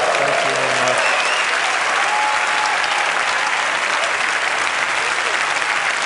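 A large audience applauding steadily, with a few voices calling out among the clapping.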